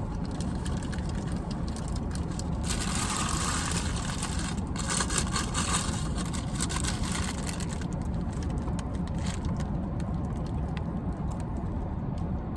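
Car engine idling with a steady low rumble, and a stretch of rustling hiss from about three to seven seconds in.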